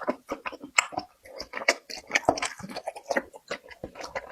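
Close-miked chewing: a person eating with many quick, irregular wet mouth clicks and smacks.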